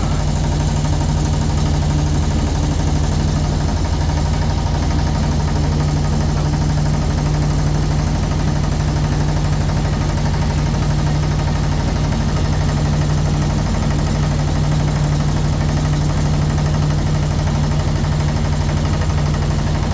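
Motorboat engine running steadily at an even, unchanging pitch, heard close up from on board.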